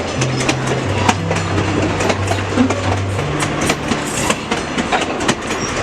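Ride noise of a passenger train under way: steel wheels clicking and clattering over the rails over a steady rumble, with a low hum underneath that shifts in pitch a few times.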